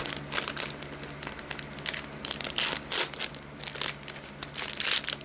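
Packaging crinkling and rustling in irregular bursts as a pack of coin envelopes is handled.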